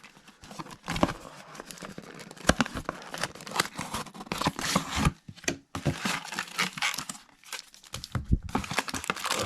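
Plastic trading-card packaging crinkling and tearing as a box and packs of baseball cards are ripped open, a dense, uneven run of crackles and rips.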